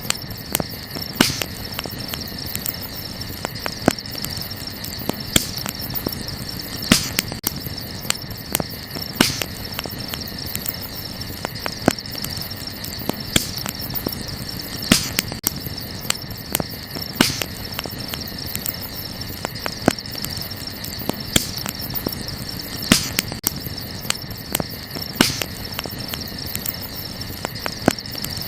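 Wood campfire crackling, with sharp pops every second or two, over a steady high chirring of crickets.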